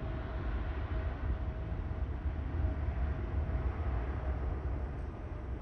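Boeing 777's twin jet engines rumbling on climb-out just after passing overhead: a steady deep rumble.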